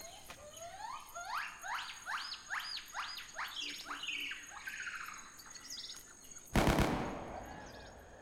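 A bird calling in a series of about eight rising, whistled notes a little under half a second apart, followed by softer chirps. About six and a half seconds in comes a loud, short burst of noise that fades away.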